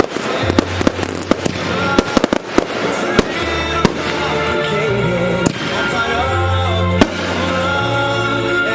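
Fireworks bursting in quick succession: many sharp reports in the first three seconds, then fewer and more spaced out. Music with held chords and a deep bass line plays underneath.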